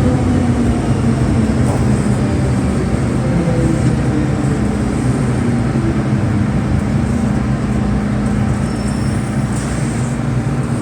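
MTR M-Train's traction motors whining as the train brakes electrically on the approach to a station. Several tones slide slowly down in pitch over the steady rumble of the wheels on the rails, heard from inside the car.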